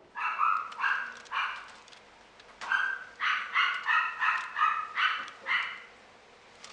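A puppy barking in short, high-pitched yips: three, a pause of about a second, then a quicker run of six or seven.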